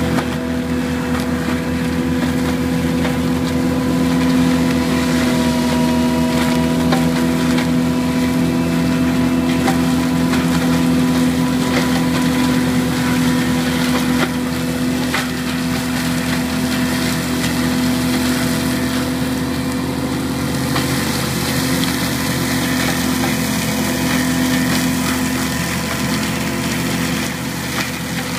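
Bobcat T770 skid steer's diesel engine running under load, driving an AHWI forestry mulcher head with a steady, even-pitched drone. Scattered sharp cracks and knocks of wood being mulched sound over it.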